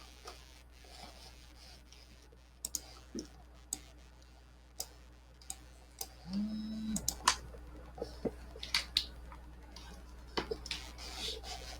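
Faint, scattered clicks and taps of a pen writing, with a short hummed "mm" about six seconds in.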